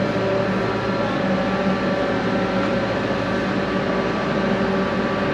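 An engine running steadily: a constant drone holding a few steady tones, with no change in pace.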